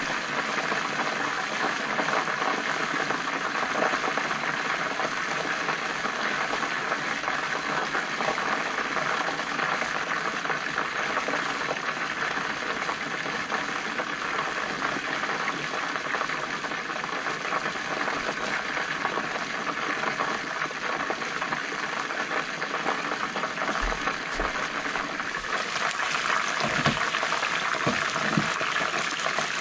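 Chicken wings frying in oil in a covered pan, sizzling steadily. About 26 s in the sizzle turns brighter as the glass lid comes off, with a few soft knocks as tongs turn the wings.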